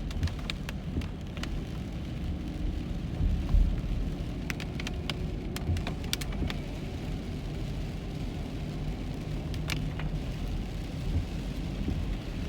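Heavy rain on a moving car, heard from inside the cabin: a steady low road rumble with scattered sharp taps of raindrops.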